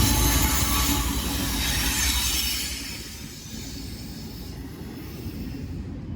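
Freight train cars rolling past on the rails with high-pitched wheel squeal. The sound fades about three seconds in as the train moves away.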